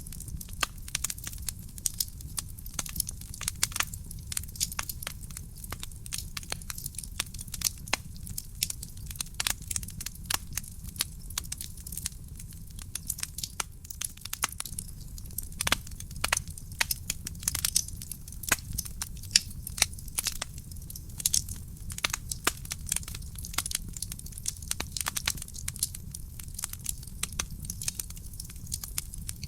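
Real wood fire burning in a fireplace: dense, irregular crackling and popping with a few sharper, louder pops scattered through, over a steady low rumble.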